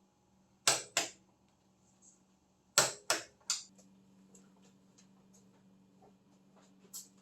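Click-type torque wrench clicking as bolts reach their set torque of 36 foot-pounds: a pair of sharp clicks about a second in, then a group of three about two seconds later, with a fainter click near the end.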